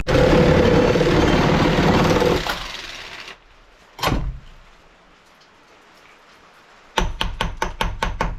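A power saw cuts the knife-handle block for about two and a half seconds with a steady whine, then winds down. A single knock comes about four seconds in, and near the end a quick run of about ten sharp taps.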